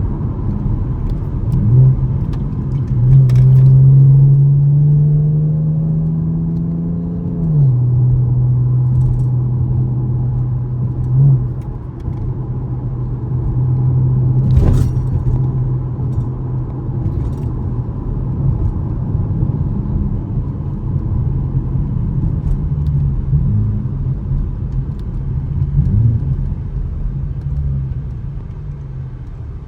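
2013 Chevrolet Camaro LS's 3.6-litre V6 accelerating with a climbing engine note, then dropping in pitch at an upshift about seven seconds in and running steadily, with a few brief blips of revs. A sharp click about halfway through.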